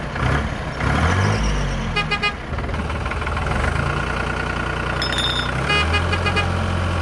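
Truck-like engine running, its pitch shifting in the first couple of seconds and then settling into a steady hum about six seconds in. Short high tones, like toots, sound around two seconds and again around five seconds.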